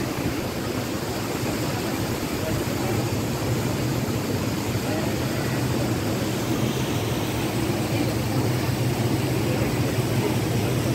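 A passing train heard at a distance: a steady low rumble with a constant hum, growing slightly louder.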